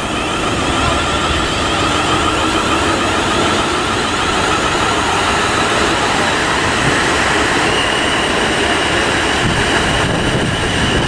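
A South Western Railway Class 450 Desiro electric multiple unit running into the station: a steady, loud noise of wheels on rail, with a thin whine that steps up to a higher pitch about eight seconds in.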